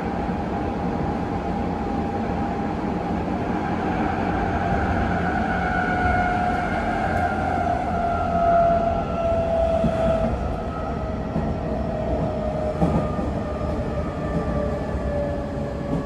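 Hanshin 9000-series train heard from inside the car: the Mitsubishi GTO VVVF inverter and traction motors give several steady tones that glide slowly down in pitch as the train slows, the way they do under electric braking. The tones sit over the rumble of the wheels, and a single knock comes about thirteen seconds in.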